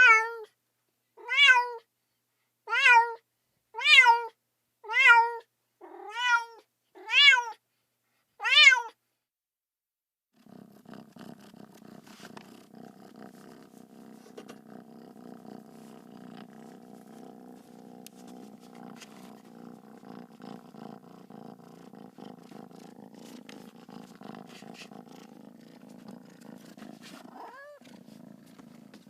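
Domestic cat meowing eight times in a row, about one meow a second, then after a short pause purring steadily at a lower level, with one brief chirping meow near the end.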